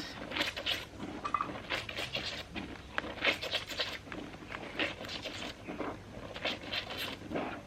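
Wet clothes being scrubbed and rubbed together by hand in a wash pan, a series of irregular rasping strokes.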